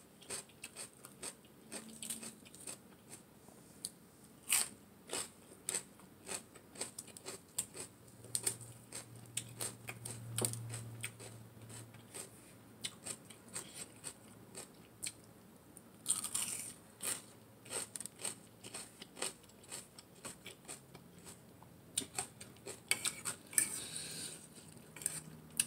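Close-miked crunching and chewing of raw mini sweet peppers and fried shrimp, with many irregular crisp bites. Near the end, a fork and spoon scrape and clink on the plate.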